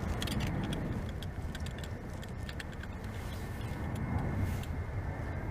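Steady low rumble with scattered light crackles and clicks, typical of outdoor field recording among fallen leaves.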